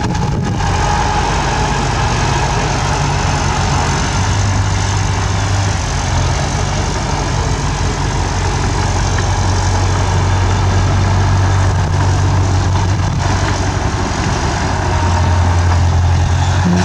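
Bulldozer's diesel engine running steadily as it works, its low drone swelling several times as the load comes on.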